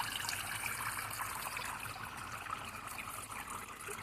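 Small waterfall trickling and splashing over rocks into a creek, a steady water sound close by.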